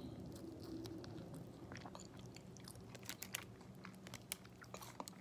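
Faint chewing of a fried chicken wing: wet mouth sounds with scattered small crunches and clicks, more of them in the second half.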